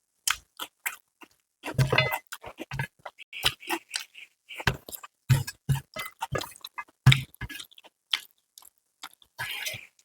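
Close-miked eating: wet chewing and lip smacks with irregular crackly clicks, a person eating rice and spicy chicken by hand.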